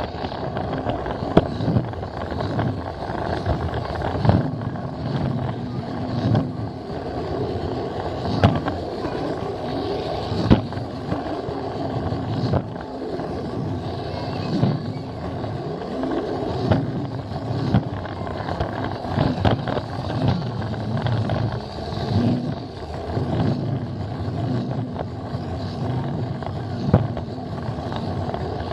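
Plarail toy train running on plastic track: its small battery motor and gears hum steadily, heard from a camera riding on the train, with sharp clicks every few seconds as the wheels cross track joints.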